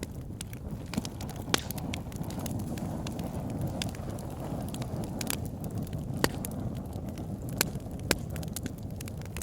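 Wood fire burning in a fireplace: a steady low rumble of flames with irregular sharp crackles and pops from the logs, the loudest pops about 1.5, 6 and 8 seconds in.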